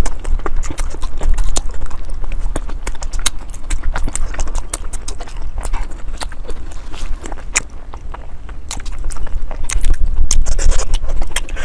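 Close-miked eating sounds: wet mouth smacks and chewing clicks coming irregularly, several a second, over a low steady rumble, growing denser and louder near the end.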